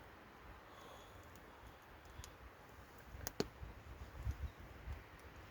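A few faint, sharp clicks over a quiet low background, the loudest about three and a half seconds in.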